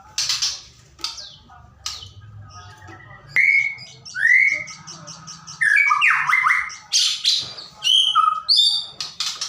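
White-rumped shama singing a varied song of loud whistles, swooping slurs, a quick run of repeated high notes and sharp harsh calls, the kind of recording played as a lure to draw a captive shama into song.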